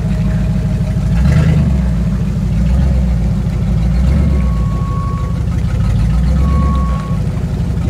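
Engine of a lifted Jeep Grand Cherokee on oversized mud tyres, throttled up in several gentle surges and easing off between them as it crawls through deep mud.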